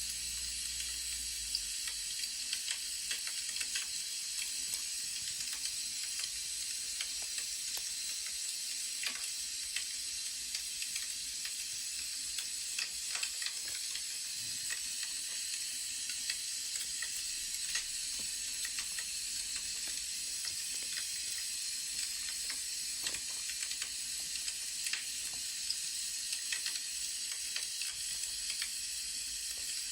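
Crackling wood fire: a steady hiss with small, irregular pops and snaps.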